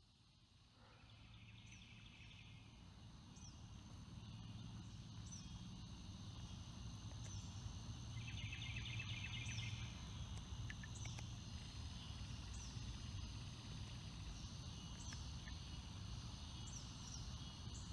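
Faint riverside nature ambience: a steady high insect drone with short chirps every second or two, and two brief buzzy trills, one about a second in and one about eight seconds in. Underneath is a low rumble that grows louder over the first few seconds.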